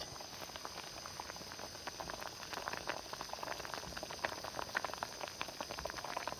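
Pot of fish soup bubbling at a boil, a steady run of small pops and crackles.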